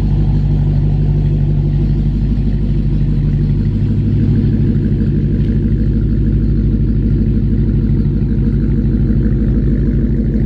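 Supercharged 6.2-litre HEMI V8 of a Dodge Challenger SRT Hellcat Redeye running at low, steady revs.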